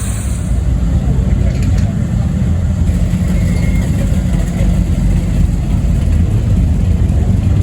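Classic Mini rally car's engine running steadily at low revs, heard from inside the cabin; it gets a little louder about half a second in.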